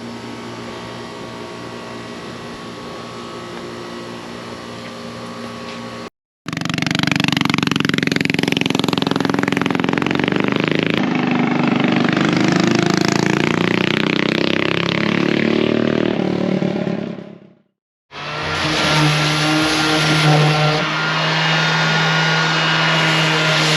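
A motor vehicle running and revving, in separate cut-together pieces: a steady hum for the first few seconds, then a louder stretch with sweeping rises and falls in pitch that fades out, and after a short break another steady run.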